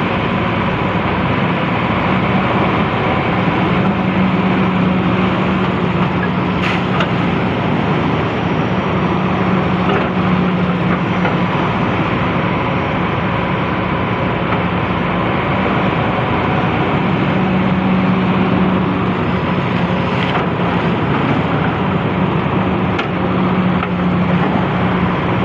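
Hydraulic excavator diesel engine running steadily under load, its drone swelling and easing slightly, with a few light knocks.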